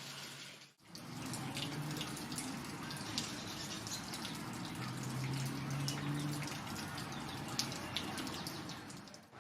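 Water trickling and dripping, with many small splashes over a steady wash. A low hum comes and goes, strongest near the middle.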